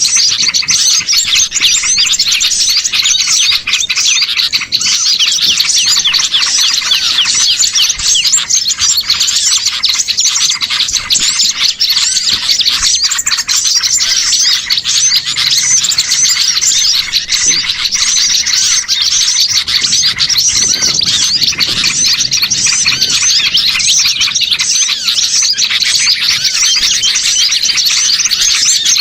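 A dense, continuous chorus of many small songbirds chirping and twittering over one another: a mixed small-bird lure recording (pikat burcil) used to draw wild birds in.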